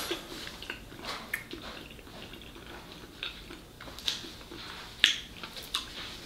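Close-miked chewing of fried coconut shrimp: crisp crunches and wet mouth clicks at irregular moments, the loudest crunch about five seconds in.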